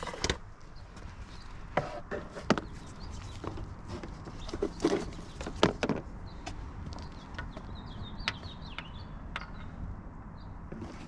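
Scattered clicks and knocks of plastic car-interior parts being handled as the glove compartment and cabin air filter cover are worked open, a handful of sharp snaps with quieter handling noises between.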